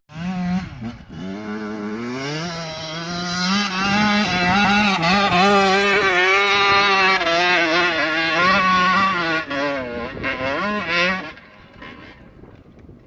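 125cc two-stroke dirt bike engine run hard on a hill climb. The revs rise over the first few seconds, then are held high with small rises and dips, and the sound cuts off sharply about eleven seconds in.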